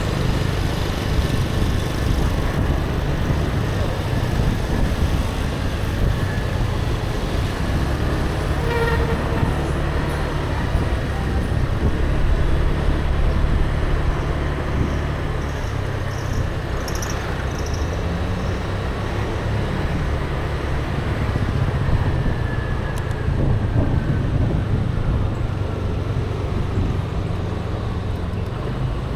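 Steady road traffic with a continuous low rumble of passing vehicles.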